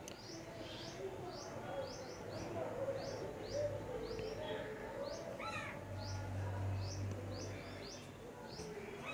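A small bird chirping over and over in the background: short high chirps about two to three a second, with a different, wavering call about halfway through.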